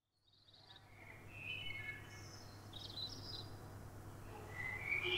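Birds chirping in short, scattered calls over a steady low hum, fading in from silence.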